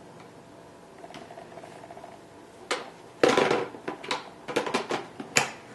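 Plastic parts of a Hoover Impulse cordless vacuum's dirt cup and filter being handled and snapped into place. A scraping rattle about three seconds in is followed by several sharp clicks as the part locks on.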